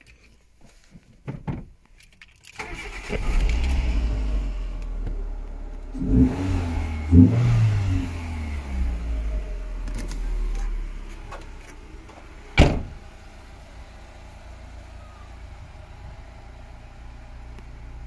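Renault Twingo RS 133's 1.6-litre four-cylinder petrol engine starting about two and a half seconds in, revved briefly twice a few seconds later, then settling to a steady idle. A single sharp knock sounds about twelve and a half seconds in.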